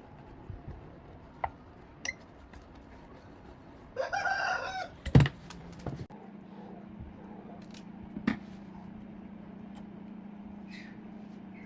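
A short pitched bird call, crow-like, about four seconds in, followed by a sharp loud knock; then a steady low hum sets in.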